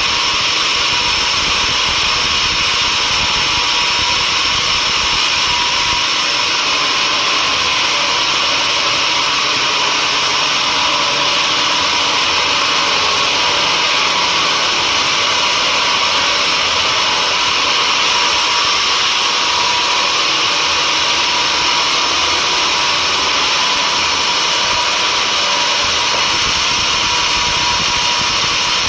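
Sawmill saw running steadily, a loud, even high-pitched whine and hiss that holds unchanged throughout.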